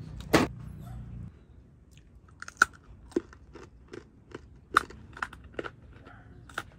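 Hard peanut brittle crunching as it is bitten and chewed: one sharp crack about half a second in, then from about two and a half seconds a run of crisp crunches, roughly two a second.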